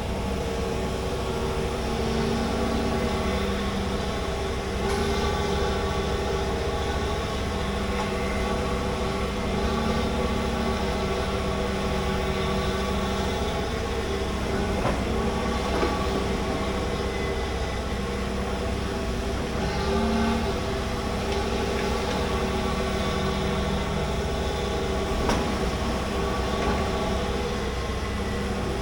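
Large excavator's diesel engine running steadily under load, with a few short knocks along the way.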